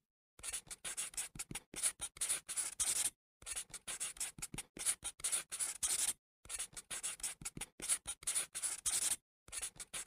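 Pencil writing on paper: quick scratchy strokes, in runs of about three seconds broken by short pauses, and a brief last run near the end.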